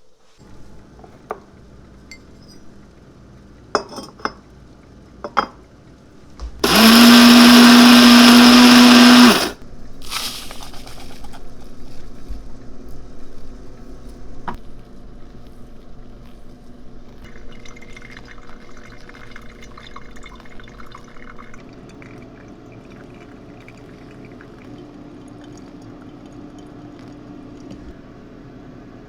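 A small high-speed electric motor, of the blender kind, runs for about three seconds, spinning up and winding down at each end. Scattered light clicks and knocks come before it, and softer handling noise follows.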